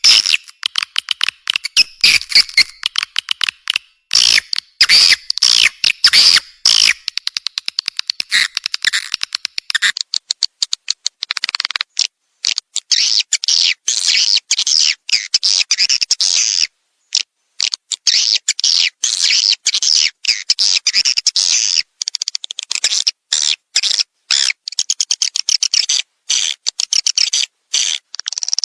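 Small birds chirping in rapid, chattering runs of high-pitched notes, broken by short gaps; from about eleven seconds in the notes run higher and more densely.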